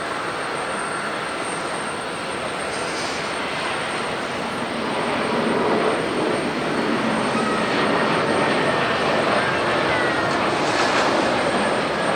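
Jet airliner engines, a steady rushing noise with a faint whine, growing louder about halfway through.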